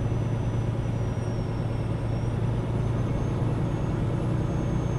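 Semi truck driving down the road: the diesel engine and road noise make a steady low hum, with a faint thin high whine above it.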